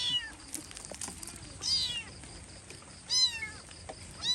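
A kitten meowing repeatedly: loud, high-pitched cries that rise and fall, about one every second and a half, four in all.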